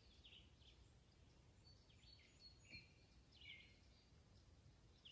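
Near silence with faint bird chirps: a few short, high calls scattered through the quiet.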